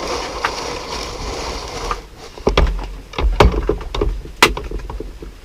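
Hard plastic parts of a toy ride-on car knocking and clicking as a piece is pushed into its holes. A steady hiss for about two seconds, then a run of sharp knocks and thuds.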